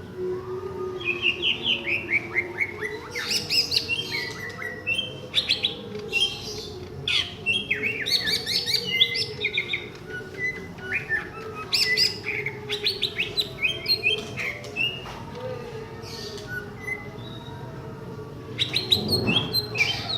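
Green leafbird (cucak ijo) singing in rapid, varied phrases of sharp chirps and quick falling trills, over a steady low hum.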